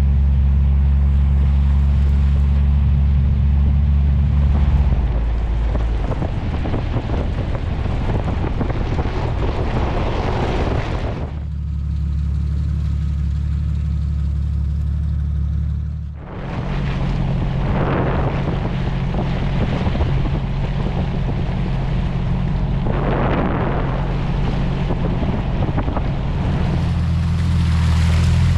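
Off-road vehicle driving on a dirt trail: a steady engine drone that changes pitch a few times, with swells of tyre and wind noise over it.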